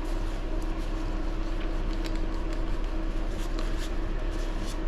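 Steady background hum with a constant low tone, with faint light clicks of small parts being handled.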